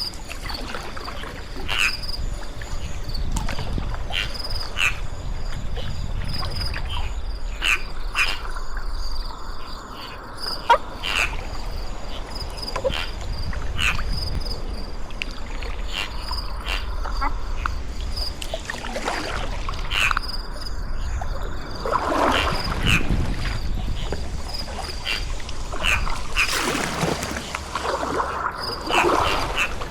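A steady, pulsing high chorus of insects with short repeated animal calls about once a second. In the second half come several louder swishes of water from kayak paddle strokes.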